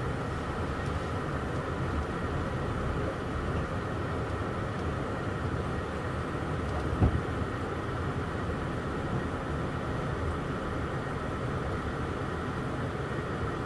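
Steady rumble and hiss of a moving Amtrak passenger train heard from inside the car, with one sharp knock about halfway through.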